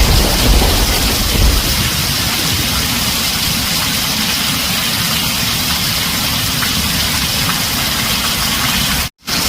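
Heavy rain drumming steadily on a tin roof, with the low rumble of thunder dying away over the first two seconds. The sound cuts out for a split second near the end.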